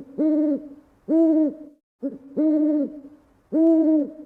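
A low hooting call repeating in a steady pattern: a short note running straight into a longer one, then a second long note, the sequence coming round about every two and a half seconds.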